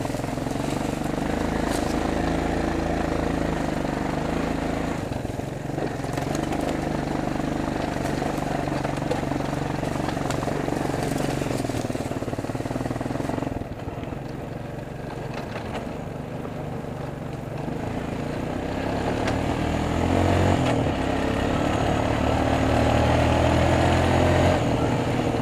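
Four-wheeler (ATV) engine running and changing pitch with the throttle. It drops back a little past halfway, then revs up and grows louder toward the end.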